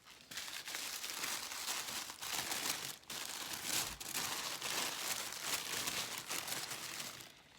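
Paper wrapping crinkling and rustling as hands unwrap an item, with a short pause about three seconds in; it dies away near the end.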